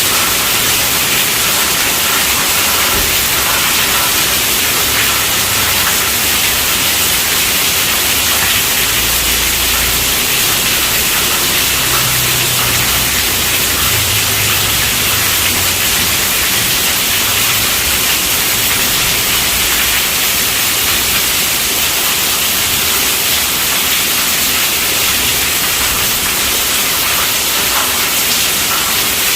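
Steady, heavy rainfall: a dense, even hiss with no breaks.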